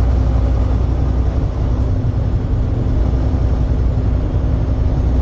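Steady low rumble of a truck's engine and road noise inside the cab, with a constant hum.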